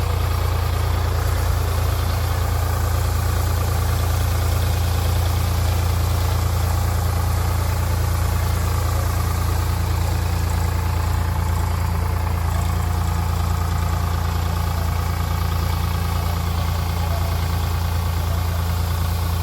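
Tractor engine running steadily at a constant speed, a strong low hum that does not change.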